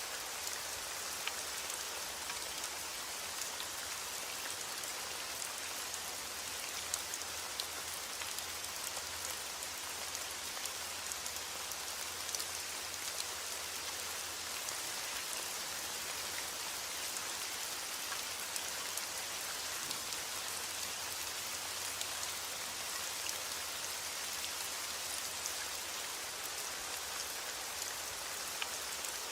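Steady rain falling on a surface, with scattered sharp ticks of individual drops.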